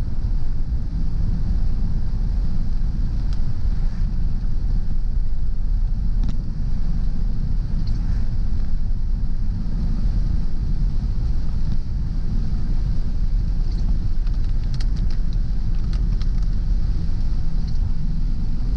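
Car driving at a steady speed: continuous low road and engine rumble with a faint hiss above it and a few light ticks here and there.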